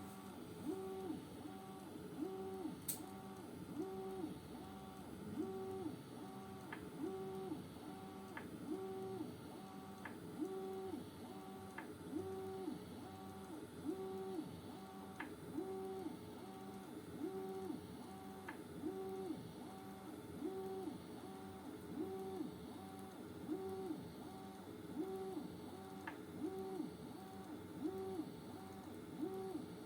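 Bambu Lab A1 3D printer's stepper motors whining through a repeating move, a tone that rises, holds and drops about once a second, over and over. Faint sharp ticks come in now and then.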